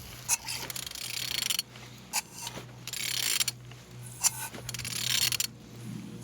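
Used car engine being turned over by hand in three long rasping strokes about two seconds apart, with sharp clicks between them. It turns freely, the sign that it is not seized.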